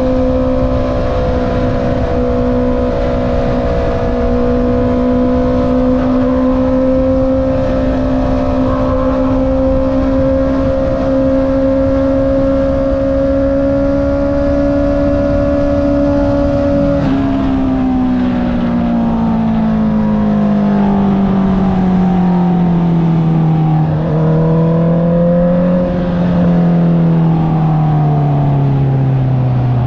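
Honda CB650R's inline-four engine through an Akrapovic exhaust, holding steady revs that creep slowly upward. A little past halfway the throttle closes and the pitch falls steadily as the bike slows on the engine, with a short blip back up near the end, over a constant rush of wind.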